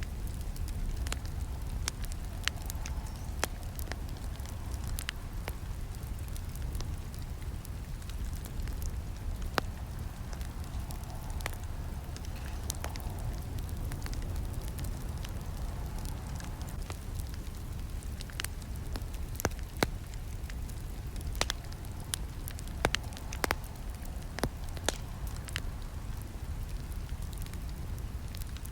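Campfire burning: a steady low rush of flames with irregular sharp crackles and pops, a few louder snaps in the second half.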